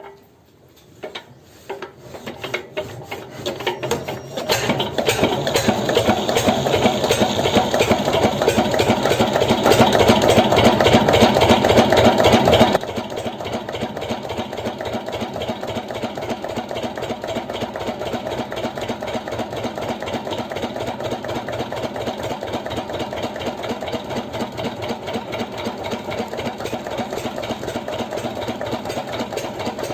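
Small motor of a homemade mini tractor and flour mill model running with a rapid, even rattle. It builds up over the first several seconds, drops suddenly in level about 13 seconds in, and then runs steadily.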